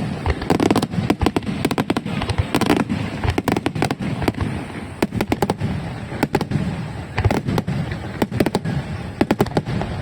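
Fireworks going off in quick succession: a dense run of sharp bangs and crackles that keeps on without a break.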